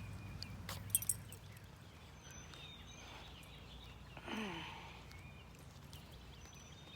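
Faint outdoor ambience with brief, faint bird chirps, two sharp clicks about a second in, and a short sound falling in pitch just after four seconds in.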